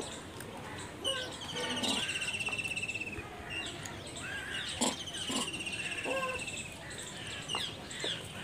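Birds calling: a fast repeated trill, each burst about a second long and coming back every few seconds, mixed with short chirps. A few sharp clicks stand out above them.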